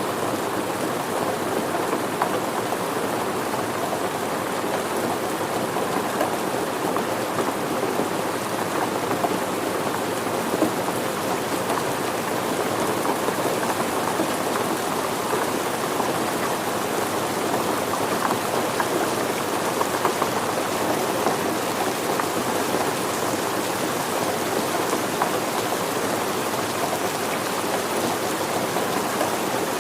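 Steady rain falling, a dense, even patter of drops that holds level without let-up.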